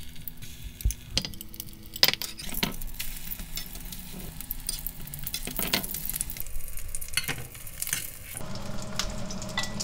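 Flour-and-egg-coated oysters sizzling as they fry in oil in a nonstick pan. A few sharp clicks of a metal spoon and tongs hit the pan as the pieces are placed and turned.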